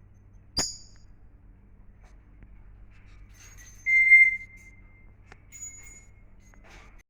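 A pet bird gives a short, steady whistle about four seconds in, the loudest sound here, with fainter short whistles after it. A sharp click comes just before the first second.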